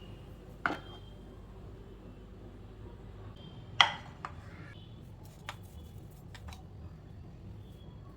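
A few sharp knocks and clinks of kitchen utensils or dishes being handled, the loudest a little under four seconds in, over a low steady background hum.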